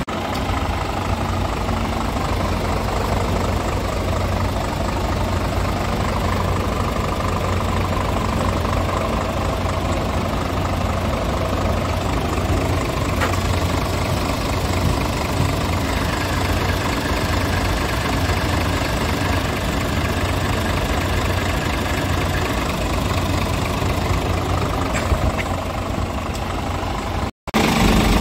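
Scania R450 truck's 13-litre six-cylinder diesel engine running steadily at idle. The sound cuts out briefly near the end.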